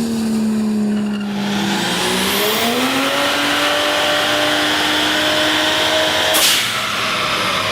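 Turbocharged Ford Barra 4.0-litre straight-six engine revving. Its note falls, then climbs and holds under load, with a high whistle rising steeply in pitch and a rushing hiss as it comes on boost. About six and a half seconds in there is a short loud burst, and the engine note drops away.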